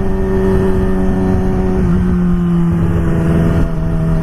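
Yamaha R6 sport bike's engine running at a steady cruising speed, its pitch dipping slightly about two seconds in, with wind rumble on the helmet microphone.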